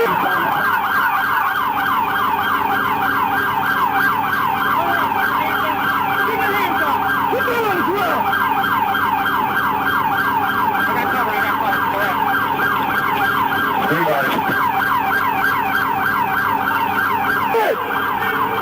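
Police car siren in fast yelp mode: a quick warbling sweep repeating about five times a second, steady throughout.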